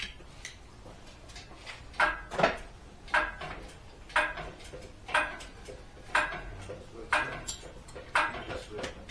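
Hydraulic engine crane being pumped by hand to lift an engine out: a regular metallic clack with a short squeak on each stroke, about once a second, starting about two seconds in.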